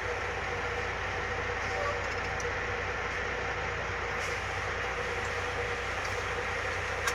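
A heavy vehicle's engine running steadily with a constant low rumble and even noise, with no change in speed or load.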